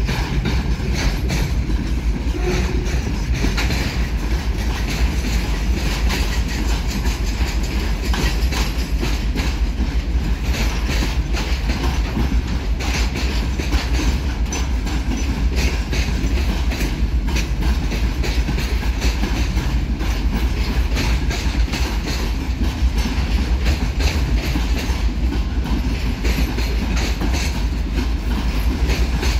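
A freight train's wagons rolling along the rails, with a steady run of clickety-clack as the wheels cross the rail joints.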